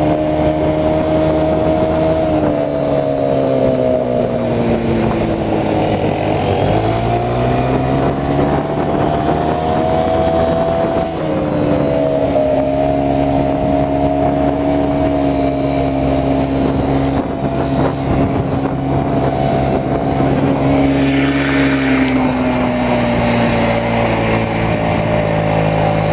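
Quad bike engine running under way, loud and continuous. Its pitch drops and climbs several times as the throttle is eased and opened.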